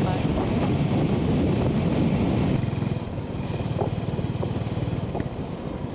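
Honda GB350's single-cylinder engine running steadily as the motorcycle rides along at road speed, with wind rushing over the microphone. The sound eases off a little about halfway through.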